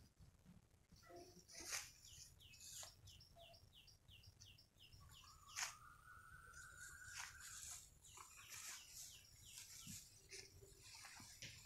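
Faint bird calls. A quick run of about ten short falling chirps, about four a second, is followed by one long note that rises slightly, with a few soft clicks or rustles in between.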